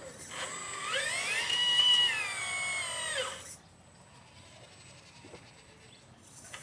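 Motor of a 1/12-scale RC Liebherr 954 excavator whining. It rises in pitch as it speeds up, holds briefly, then falls away and stops about three and a half seconds in.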